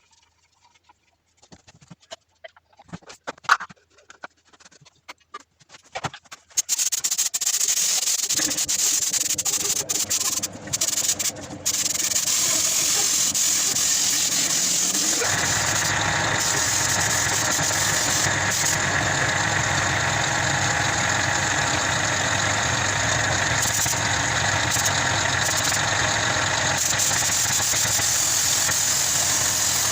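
Automotive paint being sprayed: a few clicks and knocks, then a steady hiss of spraying starts about six seconds in. About halfway through, a steady machine running sound joins it.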